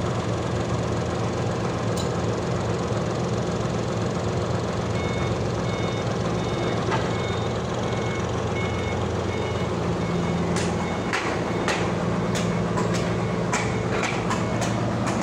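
Sawmill machinery running steadily, a constant loud drone with a low hum. Near the end a string of sharp clicks and knocks comes over it, and for a few seconds in the middle short high beeps repeat faintly.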